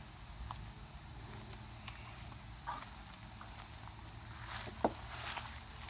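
Steady high-pitched chirring of insects, with a few faint clicks and one sharper tap near the end.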